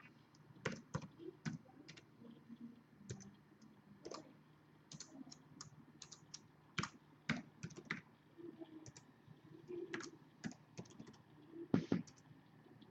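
Faint, irregular typing and clicking on a computer keyboard and mouse, in scattered keystrokes.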